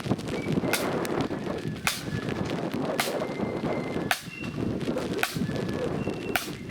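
Marching flute band: sharp drum cracks about once a second, with brief high flute notes between them.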